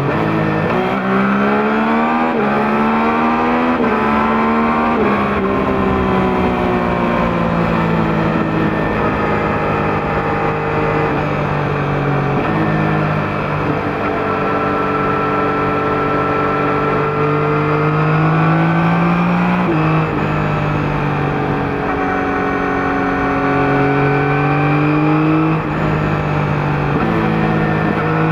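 A 2021 Yamaha MT-09's 890 cc three-cylinder engine running through its stock exhaust. It accelerates through three quick upshifts in the first five seconds, then runs at a steadier pace, with the note stepping down about twelve seconds in and again about twenty seconds in, and rising again near the end.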